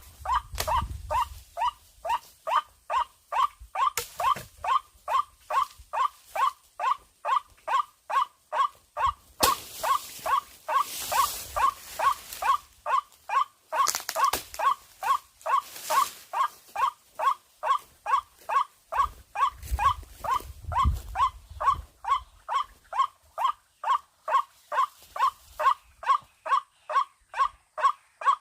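White-breasted waterhen (ruak-ruak) calls played on loop from an electronic bird caller: one harsh note repeated evenly a little over twice a second, used to lure waterhens into the net. Short spells of hiss and low rumble come and go behind it.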